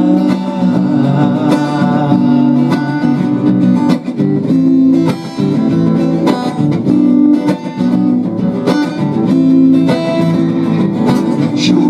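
Instrumental break of a song with no singing: a plucked acoustic string instrument playing strummed chords and melody lines in a steady rhythm.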